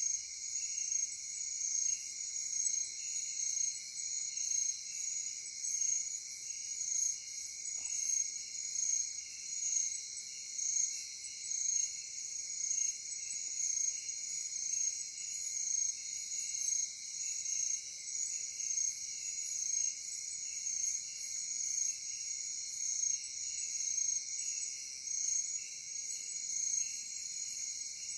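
Night insect chorus: several crickets trilling together at different high pitches, one of them pulsing in a regular beat about once a second.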